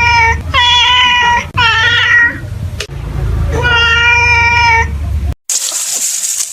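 An animal's repeated high, drawn-out cries: four calls of about a second each, the third bending upward in pitch. About five seconds in they cut off abruptly and a different, hissy sound takes over.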